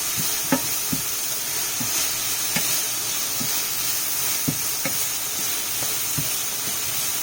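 Chicken and shrimp frying in a pan: a steady sizzle with scattered crackling pops.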